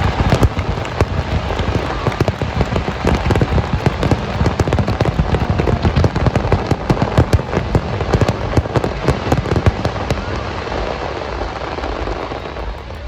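Fireworks display: a dense, unbroken barrage of bangs and crackles, easing off near the end.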